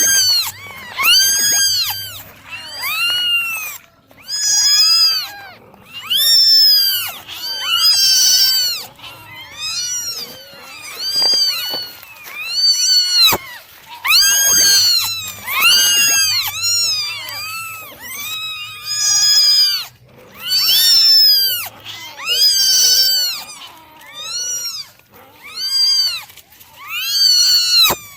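Several young kittens meowing over and over, high-pitched calls that rise and fall, coming about once a second and often overlapping.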